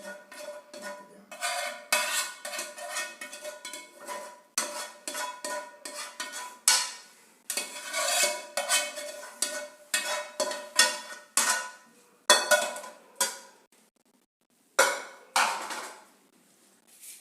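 Metal spoon scraping and knocking against a cooking pan and serving plate as the cooked egg gravy is dished out. The strokes come in quick clusters with a ringing clink, pause about 14 seconds in, then two more strokes follow.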